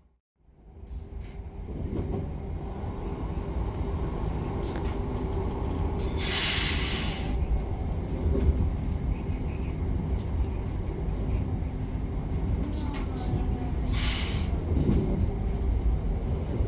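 Koleje Mazowieckie regional electric train running on the rails: a steady low rumble that begins just after a brief silence, with two short hisses about six and fourteen seconds in.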